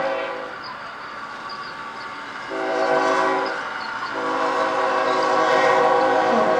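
Train horn sounding a chord in separate blasts: one ends just after the start, a short blast comes about two and a half seconds in, and a long blast starts about four seconds in. Together they match the long-long-short-long crossing signal.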